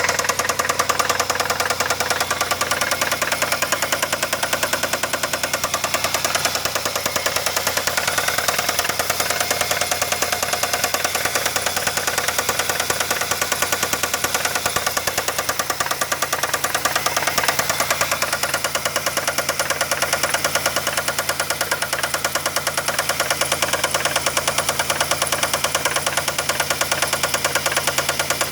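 Car engine running steadily with a rapid, even knock that repeats throughout. The owner suspects a bad rod bearing, with the banging felt through the dog-bone engine mounts.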